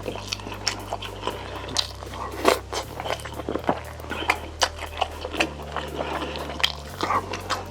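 Close-up eating sounds of Korean braised chicken (jjimdak): chewing and biting with irregular wet clicks and crackles, a few sharper bites standing out.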